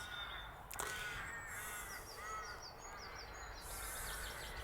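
Birds calling outdoors: a string of short, repeated calls with higher thin chirps over them. There is a single sharp knock about a second in, and a low rumble of wind on the microphone underneath.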